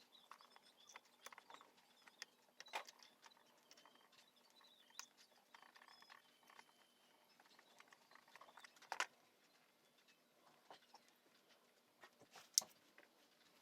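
Faint, scattered clicks and light taps over near-silent room tone, with three sharper clicks: about 3 seconds in, about 9 seconds in, and near the end.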